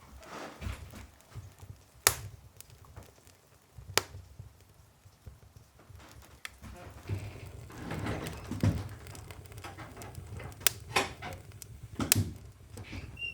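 Wood fire crackling: a handful of sharp pops a few seconds apart, with softer rustling and knocks in between.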